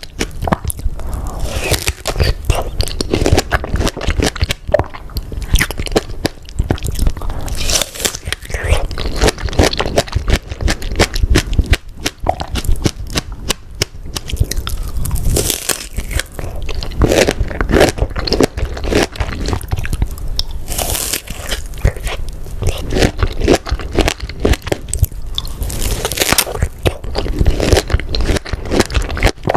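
Close-miked mukbang eating sounds: biting into and chewing fresh strawberries dipped in Nutella and whipped cream, a dense run of wet, irregular crunching and mouth clicks.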